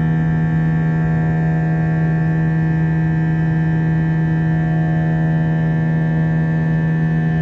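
Airbus A321's IAE V2500 turbofan engines heard from inside the cabin at climb power: a steady drone with a strong low hum and several higher steady whining tones over a hiss of rushing air.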